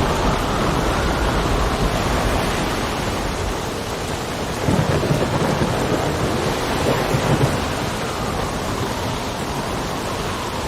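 Steady rain with low rolling thunder, the rumble swelling about five seconds in.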